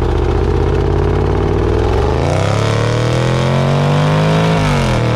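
2018 Range Rover Sport SVR's supercharged 5.0-litre V8 under hard acceleration. It holds a steady note for about two seconds, then the pitch climbs, and near the end it drops back as it shifts up.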